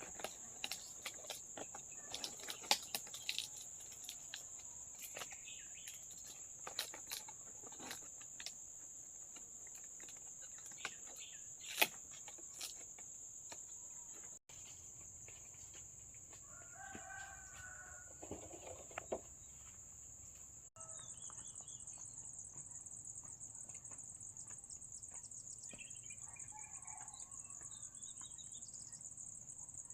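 Steady high-pitched drone of insects such as crickets. In the first half it comes with scattered clicks and knocks. After a cut, a chicken calls for a few seconds, and there are a few fainter chicken or bird calls near the end.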